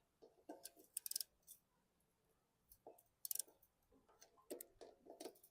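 Scattered light clicks and clinks of hand tools and small metal engine parts being handled, at an irregular pace, some with a brief ring.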